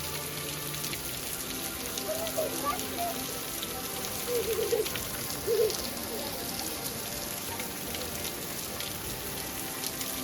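Steady pattering and trickling of water seeping and dripping out of rock, with many fine drip ticks. Faint voices are heard briefly twice, about two and five seconds in.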